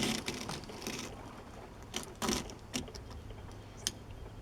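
A few light clicks and taps from a small die-cast toy excavator as its bucket is worked by hand through snow and ice.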